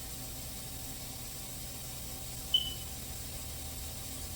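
Steady hiss of a pneumatic vacuum coolant-fill tool as coolant is drawn into a 2010 Chrysler 300's cooling system after a radiator replacement. A short, high chirp cuts in about two and a half seconds in.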